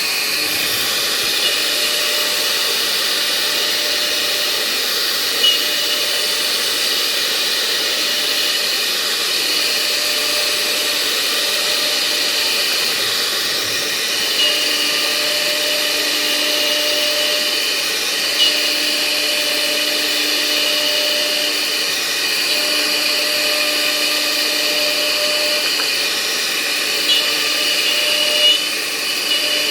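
CNC router running steadily, its spindle and drives giving a continuous motor hum with a few held tones that come and go. A handful of brief sharp sounds stand out over it.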